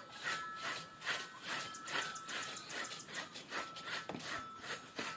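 Hand saw cutting through tree wood in steady back-and-forth strokes, about two a second.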